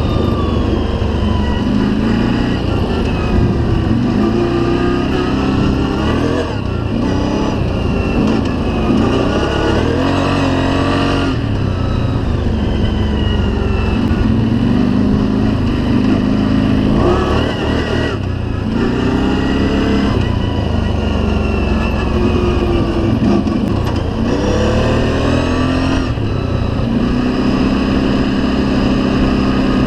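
Engine of an off-road ride-along vehicle under way, its pitch climbing and then dropping several times as it is revved and shifted through the gears, over a steady low rumble.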